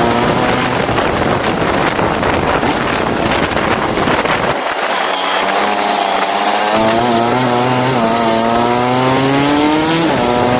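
Go-kart engine running hard with a buzzing, chainsaw-like note. Its pitch dips around the middle, then climbs steadily as it accelerates over the last few seconds.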